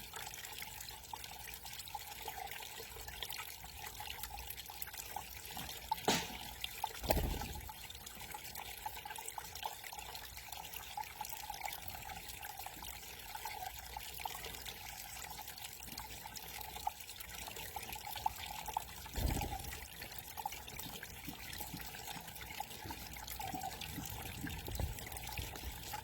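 Small backyard garden waterfall trickling and splashing steadily, with a couple of short low thumps along the way.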